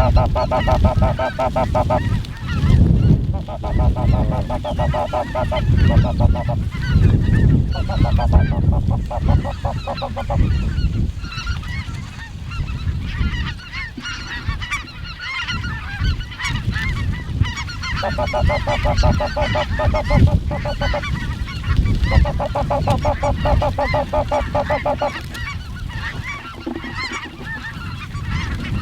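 Snow geese calling, a din of many overlapping honks. Several spells of rapid, evenly pulsed calling come and go over a low rumble.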